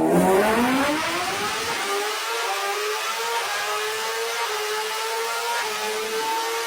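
Superbike engine revving hard, its pitch climbing steeply over about two seconds and then held high and nearly steady.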